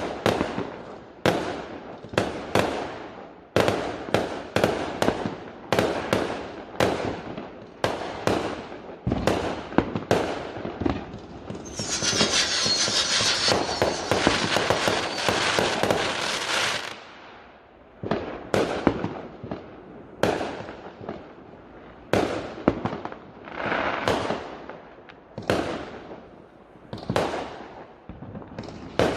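Fireworks going off in quick succession: a string of sharp bangs, each trailing off, with a few seconds of continuous hissing crackle about halfway through.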